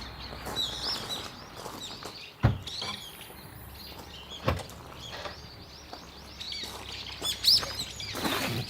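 Small birds chirping on and off, with sharp clicks or knocks about two and a half and four and a half seconds in.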